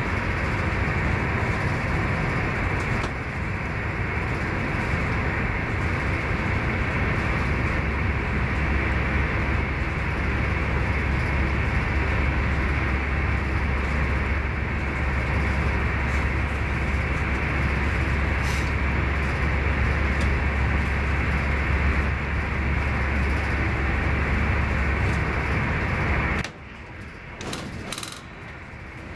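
Cabin running noise of an SJ X40 double-deck electric train at speed: a steady rumble of wheels on rail, with a low drone that strengthens several seconds in. Near the end the noise drops abruptly to a quieter rumble with a few light clicks.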